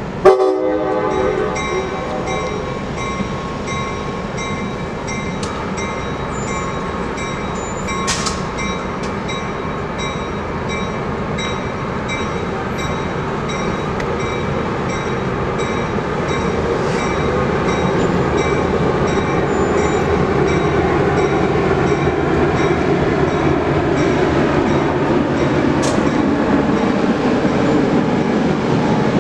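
A train horn blasts briefly at the start, then a train's steady rumble grows gradually louder as it moves through, with a high ringing repeated at an even pace throughout.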